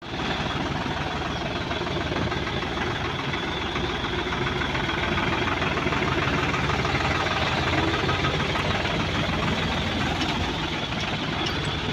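Heavy diesel engine running steadily with a fast, even chugging.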